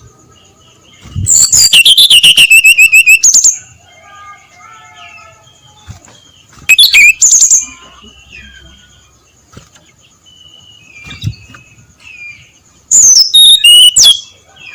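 Brown-chested jungle flycatcher singing loud phrases of rapid, repeated high notes that fall in pitch, three times: a long phrase about a second in, a short one in the middle and another near the end. Softer warbled bird notes fill the gaps.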